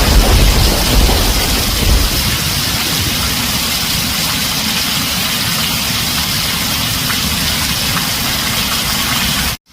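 Heavy rain drumming steadily on a tin roof, with a deep rumble of thunder fading away over the first two seconds. Near the end the sound cuts out completely for a split second.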